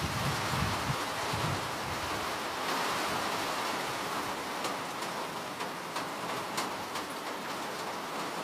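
Steady rainfall: an even hiss of rain with scattered sharper drop ticks, and a few low rumbles in the first second.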